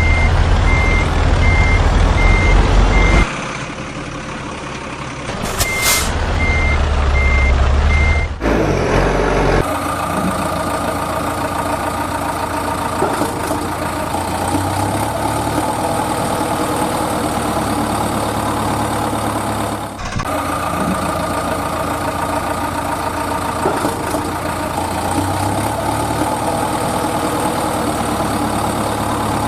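Truck engine running with a reversing alarm beeping about twice a second. The beeping stops about three seconds in and returns around six seconds, with a brief hiss. From about ten seconds a steady engine drone takes over.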